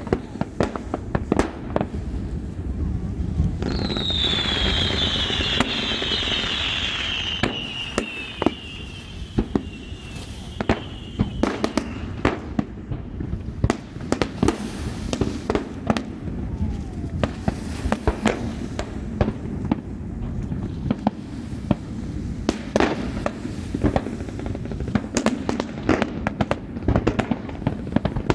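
Fireworks display: a rapid, irregular string of bangs and crackles. About four seconds in, a whistling shell sounds a long whistle that falls slowly in pitch over several seconds.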